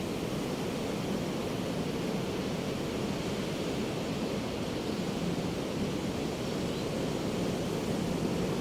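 Ocean surf washing on a beach: a steady, even rush of water with no single wave crash standing out.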